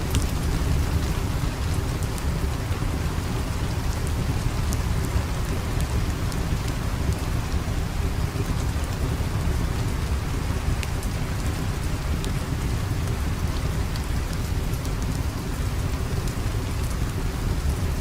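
Steady rain with a deep low rumble underneath and scattered small crackles.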